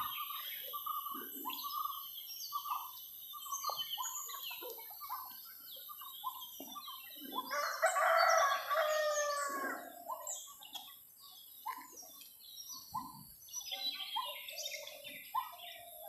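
Many wild birds chirping and calling in short, overlapping notes. About eight seconds in, a louder call with several pitches rises above them and lasts around two seconds.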